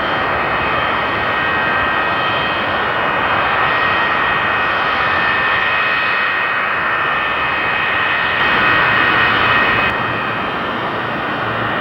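Airliner engines running at high power during a takeoff roll: a steady rush of engine noise with a high whine over it, growing slightly louder about eight seconds in.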